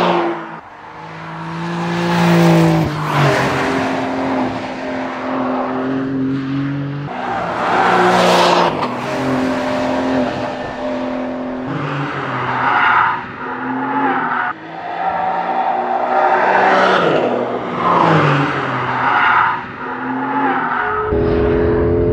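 Porsche 911 Carrera GTS T-Hybrid's 3.6-litre flat-six engine and exhaust on track, revving hard and dropping back over and over as the car accelerates and brakes into corners. Near the end the sound switches abruptly to a steady, louder engine drone.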